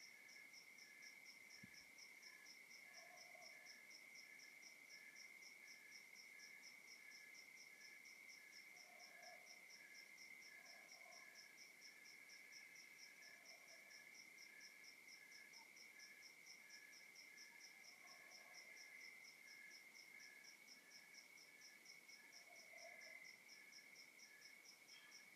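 Faint night chorus of crickets: one steady high trill, with evenly repeating chirps at two other pitches, the higher one about four a second. Scattered lower calls come every second or two.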